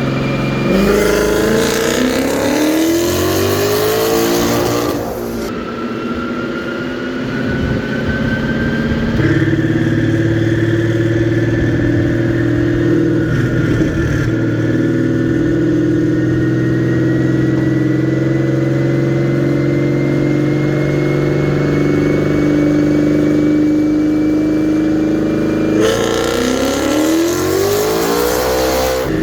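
Twin-turbocharged 2019 Ford Mustang heard from inside the cabin, accelerating with its engine note rising. It then runs at a steadier pitch while a thin turbo whistle climbs slowly, and the engine rises in pitch again near the end.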